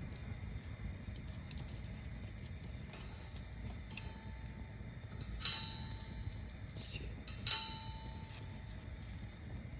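A tower-stacked wood bonfire burning with a steady low rumble, interrupted twice, about five and a half and seven and a half seconds in, by a sharp clink that rings briefly.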